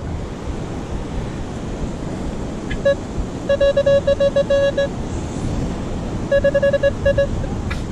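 Metal detector giving target tones: rapid repeated beeps on one steady pitch, in two runs near the middle and toward the end, as the coil sweeps over buried metal in a patch of scattered coins. Steady wind and surf noise underneath.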